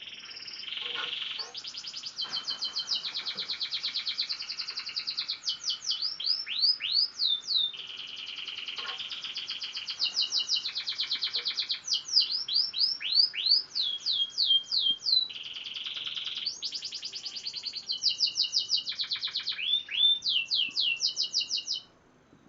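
Young F1 canary singing continuously, a practising song of fast repeated trills and rolls with quick falling notes, which stops abruptly near the end.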